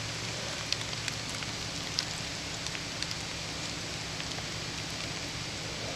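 A four-wheel drive's engine running with a low steady hum under a constant hiss, with scattered sharp ticks, more of them in the first half.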